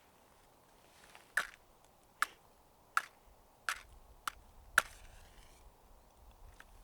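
Six sharp chopping strikes of a tool into wood, one every half second to a second.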